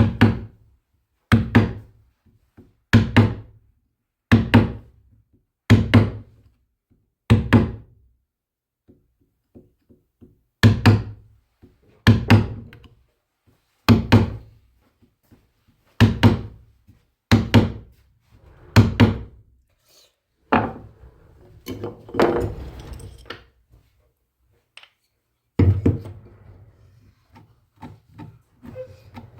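Repeated heavy knocks on wood, a strike about every one and a half seconds with a short pause partway. Near the end the strikes give way to a few seconds of rougher scraping and rustling, then a couple more knocks.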